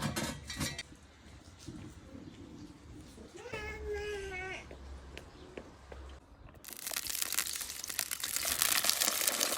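A cat meows once, a wavering call about a second long, near the middle. About two-thirds of the way through, food starts sizzling loudly in a hot pan; the sizzling begins suddenly and keeps going.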